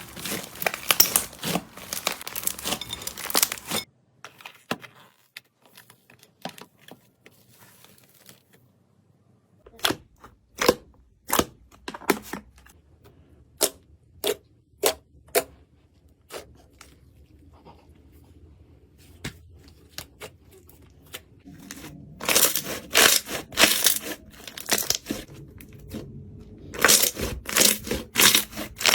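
Slime being squeezed and pressed, making dense crackling, crunching bursts. Partway through, a run of separate sharp pops comes about one to two a second, then the crackling bursts return near the end.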